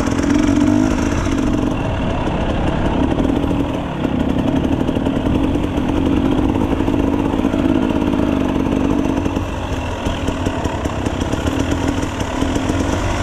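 Enduro dirt bike engine running, its note rising and falling as the throttle is opened and eased off.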